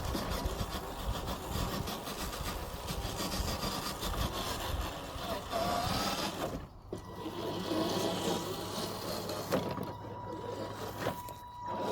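FMS FJ40 RC crawler driving over forest ground: its small electric motor and gears whining steadily while the tyres crunch and rub over leaves, twigs and wood. The sound drops out briefly twice, about seven seconds in and again near the end.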